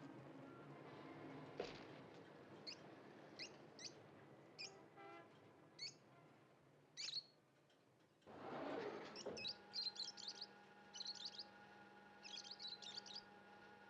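Small caged birds, the film's lovebirds, chirping in short high tweets: single chirps every second or so at first, then quick chattering clusters in the second half. A swell of noise comes about eight seconds in, and a steady low hum lies under the chirping after it.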